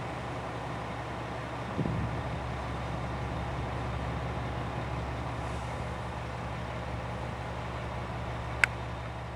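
A JR West KiHa 120 diesel railcar's engine idling steadily, with a low thump about two seconds in and a sharp click near the end.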